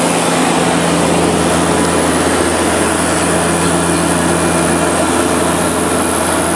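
Seaplane's propeller engines droning steadily on the landing approach, heard loud from inside the cabin with a constant low hum under a dense rush of noise.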